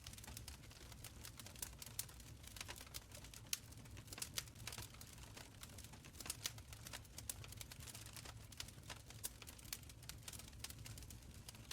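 Wood fire crackling in a stone fireplace: irregular sharp pops and snaps, several a second, over a low steady rumble of the flames.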